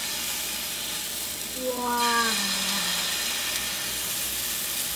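Pancake batter sizzling as it is poured into a hot skillet greased with coconut oil, a steady frying hiss. About two seconds in, a person makes a short voiced sound that slides down in pitch.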